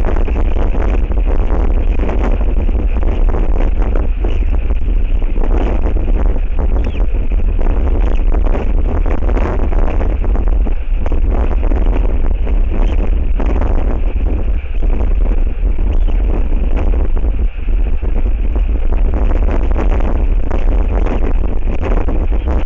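Strong wind buffeting the nest-camera microphone: a loud, constant low rumble with gusty rushing noise that swells and eases.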